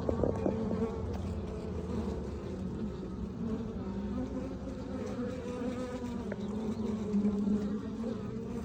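Honeybees buzzing in a loud, steady swarm around an opened hive as it is worked, the hum wavering slightly in pitch; a few light knocks of hive parts near the start.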